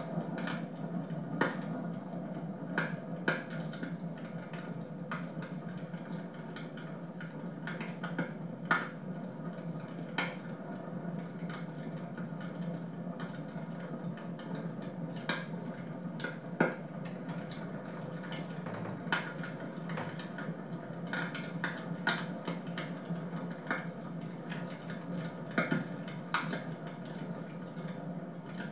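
Wood fire crackling in a fireplace: irregular sharp pops, roughly one or two a second, over a steady low background.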